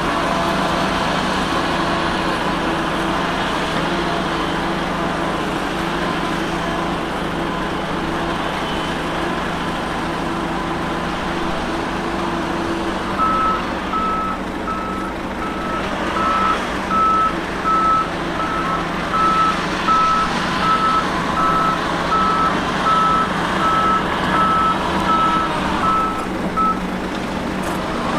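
Heavy diesel construction vehicle running steadily. About halfway through, its reversing alarm starts beeping, one high beep repeating at about one and a half a second, and stops shortly before the end.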